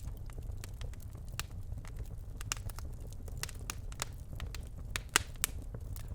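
Birch logs burning in a fireplace: irregular sharp crackles and pops over a low steady rumble, with the loudest pop about five seconds in.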